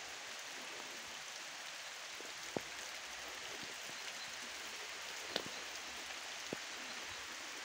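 Steady rain hiss, light and even, with three sharp ticks of single drops or taps: one a few seconds in, one about halfway, one a second later.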